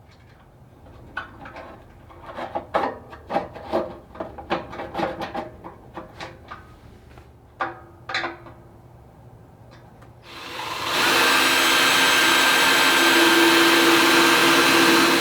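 Irregular hand scraping or rubbing strokes for about ten seconds. Then a loud, steady machine starts up quickly and keeps running.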